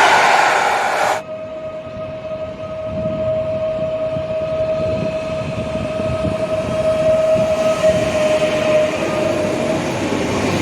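A train on the move, a low rumble with a steady high-pitched tone held for about eight seconds before it dips and stops. About a second in, a louder, noisier sound before it cuts off abruptly.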